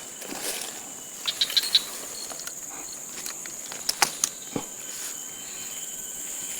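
Steady high-pitched insect drone, crickets or cicadas, with a few short clicks and rustles, twice in quick little clusters, and a dull thud a little past the middle.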